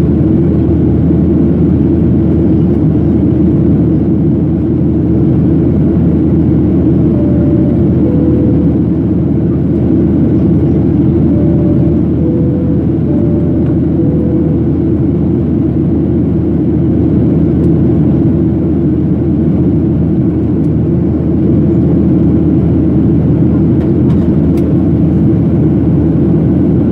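Steady, loud low cabin rumble inside a Boeing 737-800 in flight, from the jet engines and the airflow. A two-tone high-low cabin chime sounds once about seven seconds in and twice more a few seconds later.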